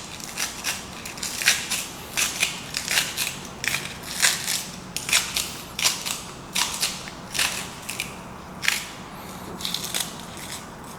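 A knife chopping scallions on a cutting board: a run of crisp, uneven cuts, often several in quick succession, a few a second.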